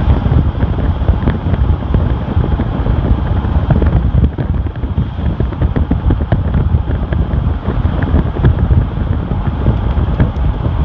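Heavy wind buffeting on the microphone over a 2008 Chevrolet Silverado 4x4, with scattered short clicks throughout.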